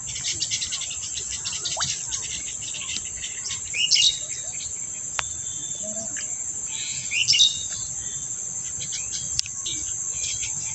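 Small birds chirping and calling, with two louder calls about four and seven seconds in, over a steady high-pitched insect drone.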